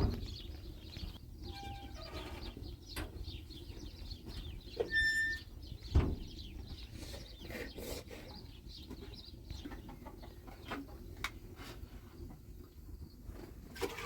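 Chickens clucking, with two short high-pitched calls and scattered light knocks and taps; a single louder thump about six seconds in.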